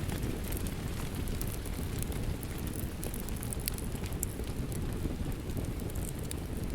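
Steady rain with a wood fire crackling, scattered sharp pops over a constant low rushing noise.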